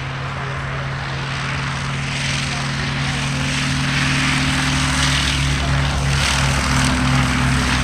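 Propeller aircraft's piston engine droning in a steady low hum with a rushing noise over it, growing a little louder over the seconds.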